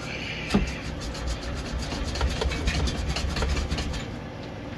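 A sharp metallic knock, then about three seconds of irregular scraping, clicking and rubbing from hand tools working on the exhaust hangers and clamp under the car, easing off near the end.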